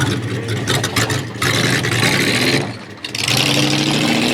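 ZIL-137B truck's engine running with a steady note that rises slightly after about three seconds. Two loud stretches of hissing noise lie over it, with a short dip between them.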